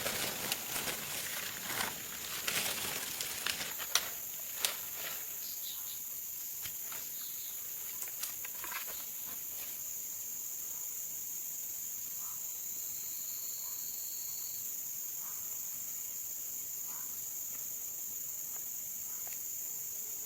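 Steady high-pitched insect chorus. During the first few seconds it is joined by rustling and handling noises and two sharp snaps, and after that only the insects remain.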